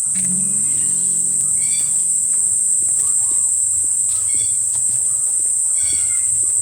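Insects droning loud and continuous at a high pitch, with a bird giving short calls every couple of seconds.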